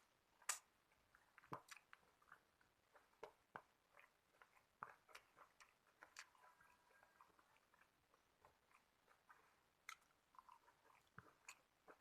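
Faint close-up chewing and mouth sounds of a person eating, scattered soft smacks and clicks, with a sharper click about half a second in.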